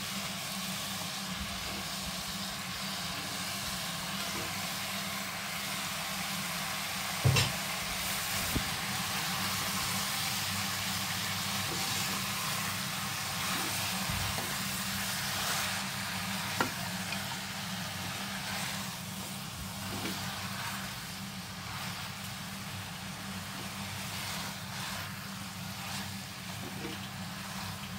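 Raw chicken pieces sizzling as they fry with onions, tomatoes and turmeric in a nonstick pot, stirred with a spatula, over a steady low hum. Two sharp knocks of the utensils on the pot, the loudest about seven seconds in.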